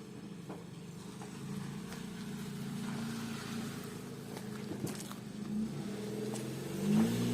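Car engine running steadily, then rising in pitch near the end as the car pulls away and accelerates.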